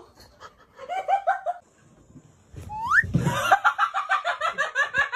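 A person giggling in rapid, high-pitched bursts: a short bout about a second in, then a longer one from about three seconds in. A quick rising squeal comes just before the second bout.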